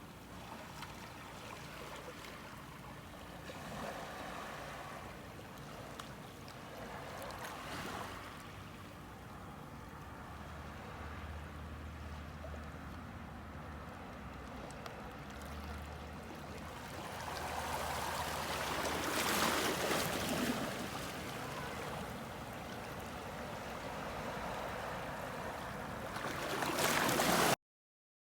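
Sea waves washing in, swelling and falling away several times, with the biggest surge a little past the middle; the sound cuts off suddenly near the end.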